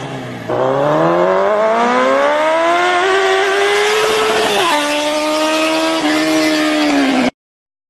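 Racing car engine accelerating hard. Its pitch dips briefly, then climbs steadily for about four seconds. It drops suddenly at an upshift and holds at the next gear before cutting off abruptly near the end.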